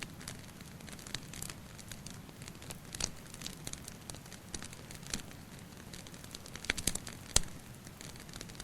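Wood fire crackling, with irregular sharp pops over a steady low hiss; a cluster of louder pops comes near the end, the loudest about seven seconds in.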